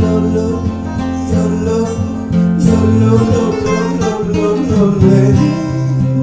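Acoustic guitar strumming with banjo in a country-bluegrass style song, an instrumental passage between sung lines.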